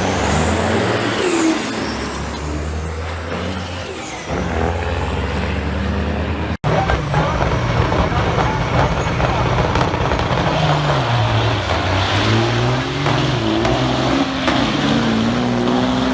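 Diesel semi truck engines running loud. About six and a half seconds in the sound cuts sharply, and after it an engine note climbs, with a high whine that rises and drops back several times.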